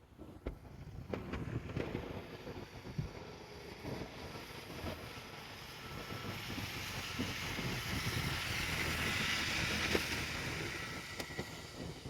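A train running past: a rushing rail noise that swells to a peak about nine seconds in and then eases off, with scattered clicks and knocks.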